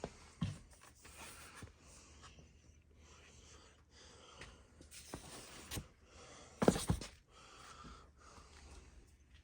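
Handling noises: a few scattered knocks and thumps over faint rustling, the loudest a quick cluster of thumps about two-thirds of the way through.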